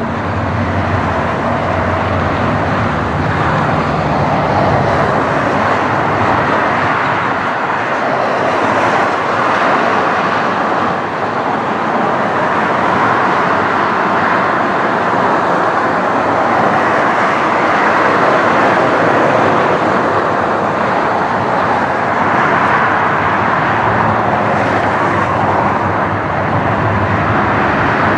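Jet airliner engines running, heard as a loud, steady rushing noise with no clear pitch.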